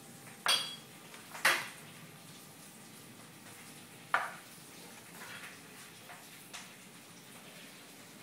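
A mop knocked about by a playful puppy: three sharp clattering knocks in the first half, the first with a brief ring, then a few fainter taps.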